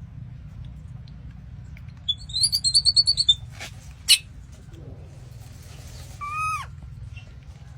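High-pitched animal calls: a quick run of about a dozen chirps, then two sharp clicks, then one short call that curves in pitch, over a steady low hum.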